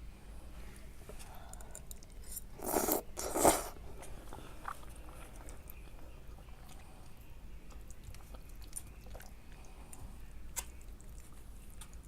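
Close-up sounds of a person eating spaghetti: chewing with small wet clicks, and two louder short noises about three seconds in.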